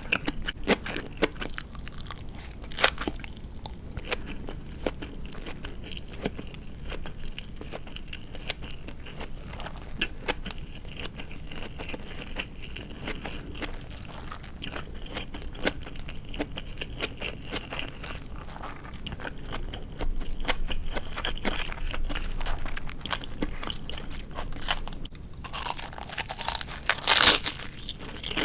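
Close-up chewing of crispy deep-fried marinated chicken (tatsuta-age): crunchy bites and steady chewing with many small crackling clicks. Near the end there is a louder, longer noise.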